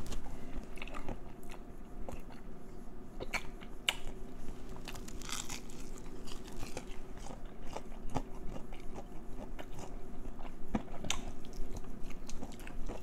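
A person chewing and biting into KFC fried chicken close to the microphone, with scattered crisp crunches and sharp wet clicks of the mouth.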